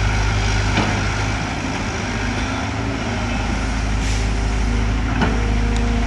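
CAT hydraulic excavator's diesel engine running steadily under work, with a short hiss about four seconds in and a few sharp knocks, the clearest about five seconds in.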